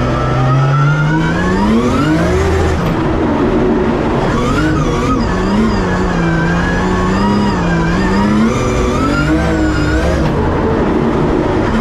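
Turbocharged Toyota 2JZ straight-six of a Nissan S14 drift car, heard from inside the cockpit: it revs up steeply over the first couple of seconds, then rises and falls repeatedly as the throttle is worked through the corners. It is running with the boost turned down and the rev limit lowered for a shakedown.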